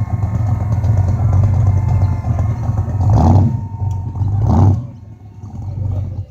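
A car engine running loudly as the car drives past, with a low, deep rumble and two short revs about three and four and a half seconds in.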